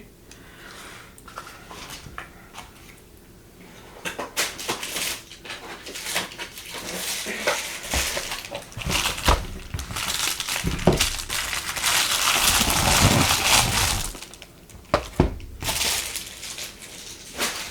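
Packaging being handled and opened: a long stretch of crinkling and crackling plastic or paper, with scattered sharp clicks and knocks.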